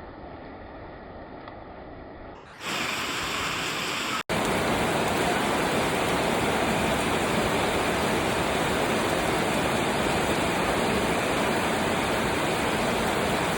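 Heavy rain falling, a steady dense hiss. About two and a half seconds in it suddenly gets louder and brighter, and there is a momentary dropout a little over four seconds in.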